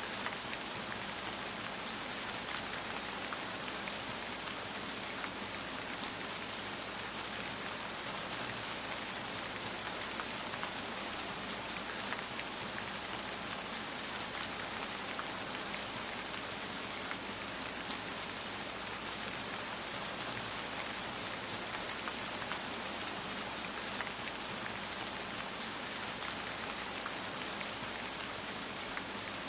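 Steady rain, an even hiss of many small drops pattering on a surface, with no change in intensity.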